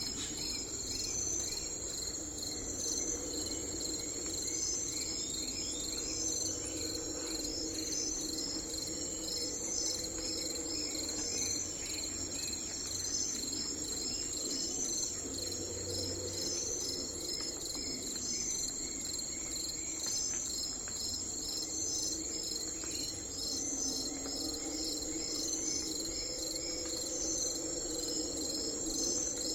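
Insect chorus: a steady high-pitched trill with a regular pulsing pattern, over low, even background noise.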